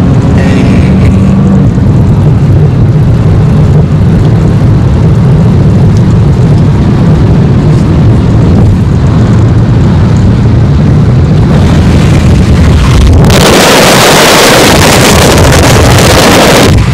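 2006 Acura MDX's 3.5-litre V6 and dual exhaust running hard under full acceleration, heard from inside the cabin, very loud. About thirteen seconds in, a loud rush of wind noise swamps it for a few seconds.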